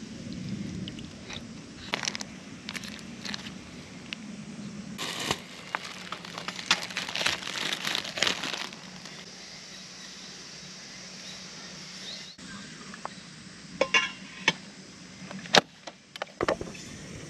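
Crinkling, rustling and clicking of objects being handled: irregular sharp clicks and rustles, busiest in the middle, with a few loud clacks near the end.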